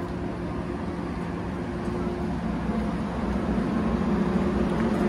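Passenger train standing at the platform with its engine idling: a steady low hum with a constant drone, getting a little louder toward the end.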